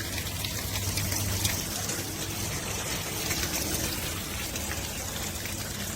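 Water pouring and splashing steadily out of the bottom and side of a Camplux portable tankless water heater once water is turned on to it: the unit is leaking.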